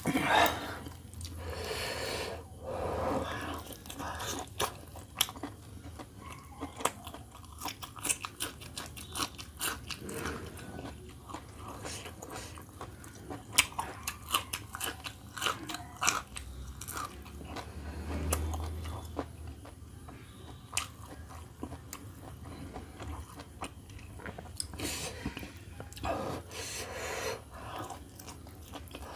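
Close-up eating sounds: a roast chicken being chewed and bitten, along with raw green chillies, with many small crunches and wet mouth clicks. Near the start the chicken is torn apart by hand.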